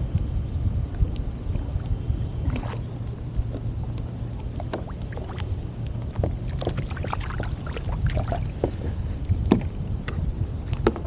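Water and wind noise around a kayak: a steady low rumble, with a run of small clicks, knocks and splashes about halfway through.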